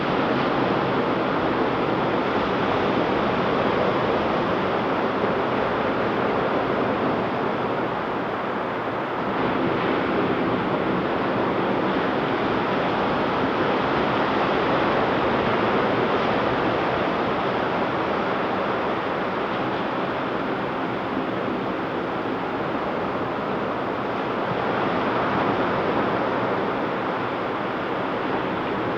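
Ocean surf breaking and washing on a beach in a steady wash of noise that swells and eases slowly every several seconds, with some wind on the microphone.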